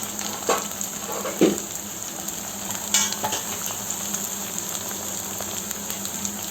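Onions and ginger-garlic paste sizzling steadily in hot oil in a pan while being stirred, with a few sharp scrapes and knocks of the utensil against the pan.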